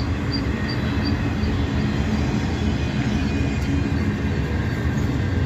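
Freight train of empty auto rack cars rolling past with a steady rumble of wheels on rail. A high squeak repeats about three times a second and fades away about four seconds in, which is taken for brake shoes rubbing.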